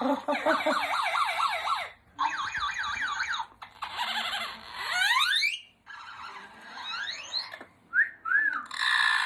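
Yellow-crowned Amazon parrot mimicking a car alarm: a run of separate bursts, each a different pattern of fast up-and-down warbling or rising whoops, then a few short chirps near the end.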